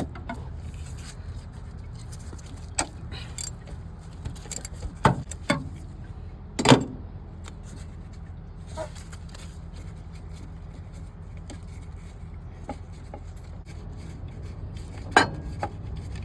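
Metal hand tools clinking and knocking against the engine while the belt tensioner on a Cummins ISX 15 is unbolted. A few sharp clanks stand out about five seconds in, near seven seconds and near the end, over a steady low hum.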